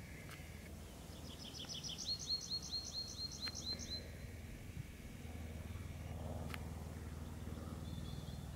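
A songbird sings a fast run of short high notes lasting about three seconds, the later notes sliding down in pitch, over a steady low rumble.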